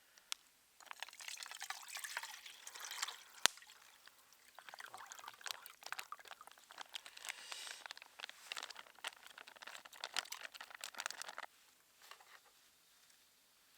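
Liquid being poured in two spells, with one sharp click between them about three and a half seconds in. The pouring stops about eleven seconds in.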